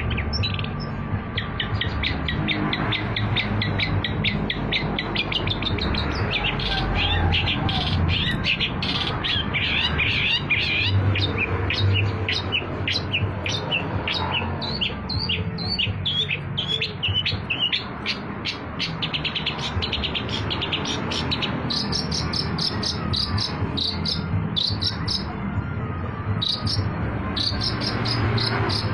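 Long-tailed shrike (cendet) singing a fast, continuous song of short, rapid chirping notes, with higher, sharper notes in the last several seconds. A steady low rumble runs underneath.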